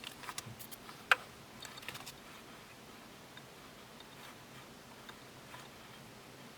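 A cluster of light clicks and knocks in the first two seconds, the sharpest about a second in, then only faint room noise.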